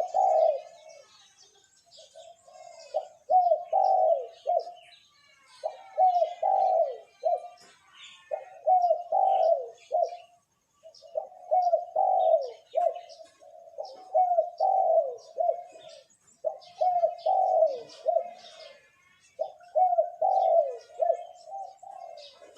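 Male spotted dove cooing: a short phrase of low coos, repeated about every two to three seconds. Faint chirping of small birds sounds behind it.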